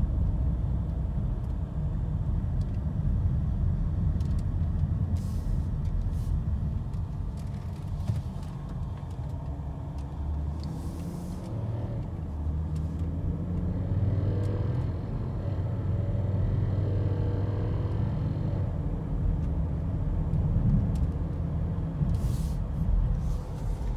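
2011 BMW X5 on the move: a steady low rumble of road and engine noise, with a few short sharp clicks scattered through it, the rattle the vehicle has developed.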